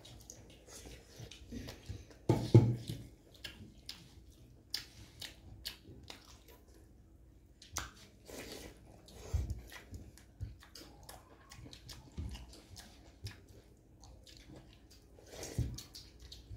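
Chewing and biting of sausage and rice: irregular wet mouth clicks and smacks, the loudest about two and a half seconds in.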